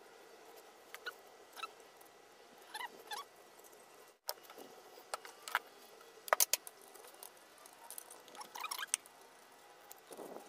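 Light metal clicks and clinks of engine parts being handled and set in place on a 2AZ-FE cylinder head. The clicks come in small scattered clusters, with the sharpest few about six seconds in.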